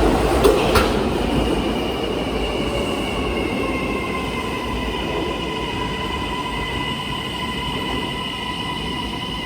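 Kintetsu electric train moving slowly through the station: rumbling, with two sharp clicks in the first second, then a steady high squeal of several tones from about a second and a half in, while the overall sound slowly eases.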